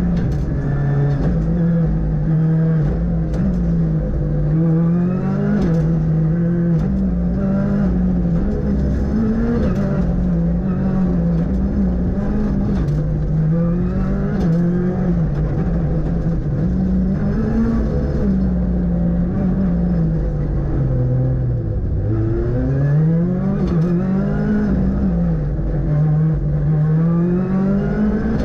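Ford Fiesta R5 rally car's 1.6-litre turbocharged four-cylinder engine at full stage pace, heard from the onboard camera. The engine note keeps climbing through the revs and dropping at gear changes and corners, falling lowest about two-thirds of the way through before pulling hard up again.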